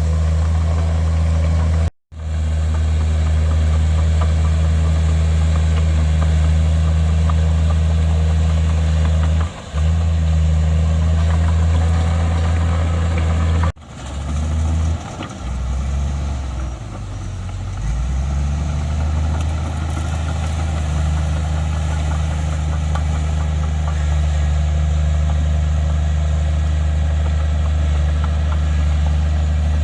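Heavy diesel earthmoving machinery running with a steady low engine note. It cuts out abruptly twice, about two seconds in and again around fourteen seconds. After the second break the note wavers and shifts for a few seconds before settling.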